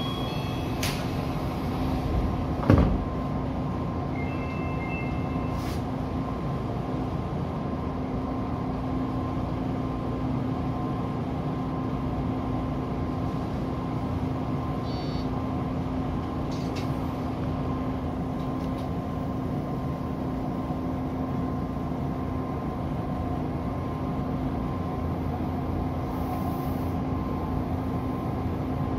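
Steady hum of an Odakyu 2000 series electric commuter train standing at a platform, heard from inside the driver's cab, with a single loud thud about three seconds in and a brief electronic beep shortly after.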